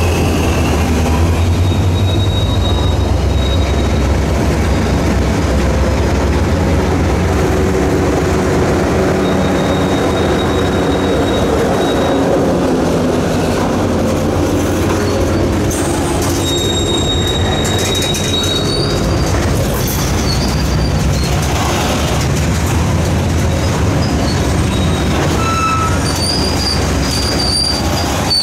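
Freight train passing close by at low speed. The trailing diesel locomotive's low engine rumble is strongest over the first few seconds, then a boxcar and covered hopper cars roll past. Steel wheels squeal off and on in high thin tones over the rolling rumble, with the squealing strongest near the end.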